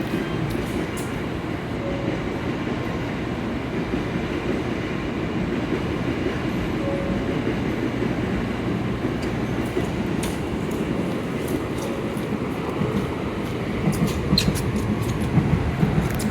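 N700-series Shinkansen train pulling out of the platform with a steady low rumble of wheels and traction motors. Sharp wheel clicks over the rail joints come in near the end as it gathers speed.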